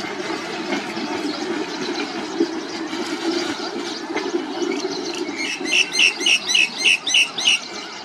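A steady rushing rumble underneath, and about five and a half seconds in a bird gives a quick series of about eight shrill, slightly falling notes, roughly four a second.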